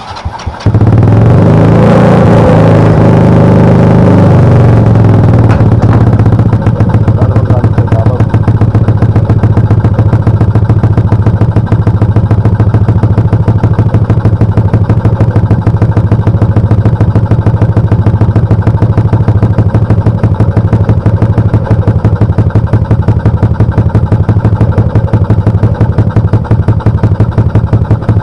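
A 100cc motorcycle engine starts about half a second in and revs up and down over the first few seconds. It then settles into a steady idle with a fast, even pulse: a test run after fitting a new carburetor rotator.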